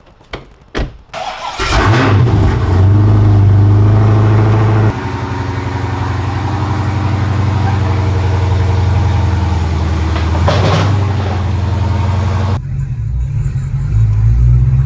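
A few clicks, then the drift car's engine starts about a second and a half in, runs at a high idle and settles to a lower steady idle about five seconds in. The engine sound changes abruptly near the end.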